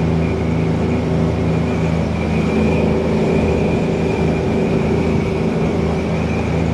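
Twin engines of a 1992 Sea Ray 380 Sun Sport, driving Bravo 3 sterndrives, running steadily with the boat underway, over a rush of water and wind noise.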